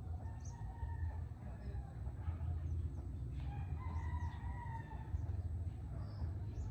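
Roosters crowing faintly, several calls in turn, over a steady low rumble.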